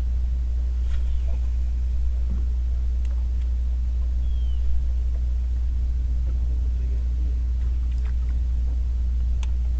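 A steady low rumble that sets in abruptly just before and holds at one level throughout, with a few faint clicks over it.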